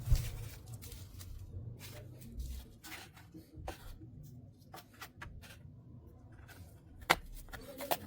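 Scattered light clicks, taps and rubbing, with a low rumble fading out in the first two or three seconds and a sharper click about seven seconds in.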